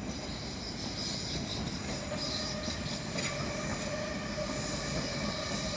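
A train moving at a station platform: a steady rumble and hiss of wheels and running gear, with a thin steady whine that comes in about two seconds in.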